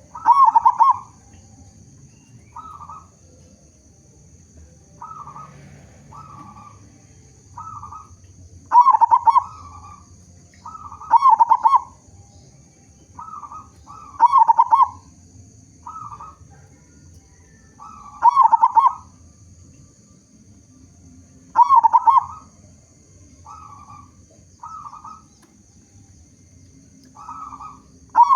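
Local zebra dove (perkutut) singing steadily: a few soft short coos, then a loud rolling coo, the phrase repeating about every three to four seconds.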